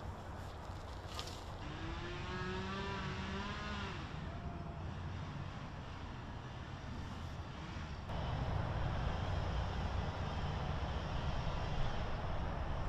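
Steady outdoor low rumble that gets louder about eight seconds in, with a brief wavering call about two to four seconds in.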